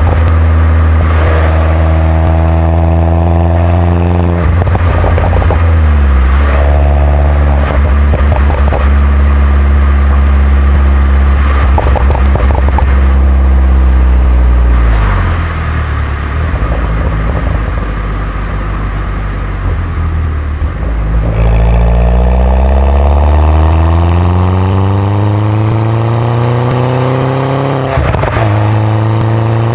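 2011 Mini R57 John Cooper Works' turbocharged 1.6-litre four-cylinder and stock exhaust under driving, heard from the car. The engine note steps through gear changes and eases off to a quieter run about halfway through. It then climbs steadily in pitch under hard acceleration before another shift near the end.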